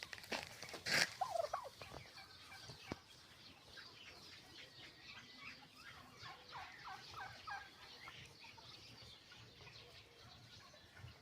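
Domestic turkeys gobbling and calling, with a loud burst about a second in and a rapid rattling series of short notes a few seconds later.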